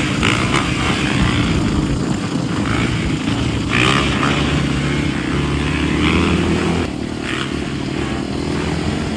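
125cc motocross dirt bike's petrol engine running and revving, a little quieter from about seven seconds in.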